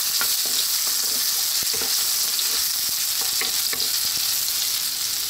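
Julienned ginger sizzling in hot oil in a non-stick wok, stirred with a wooden spatula that gives small scrapes and taps against the pan.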